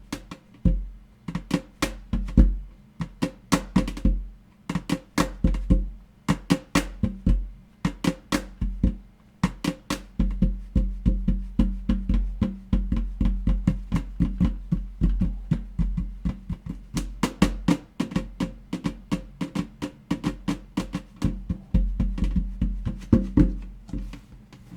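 Fast ASMR tapping on an object, sharp taps several a second in quick uneven flurries, stopping just before the end.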